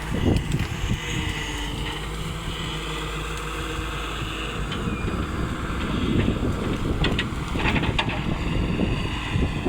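Volvo excavator's diesel engine running steadily, with wind on the microphone and a few short sharp knocks about seven to eight seconds in.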